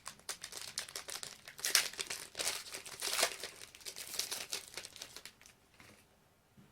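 A trading-card pack wrapper being torn open and handled, with irregular crinkling and crackling that dies away about five and a half seconds in.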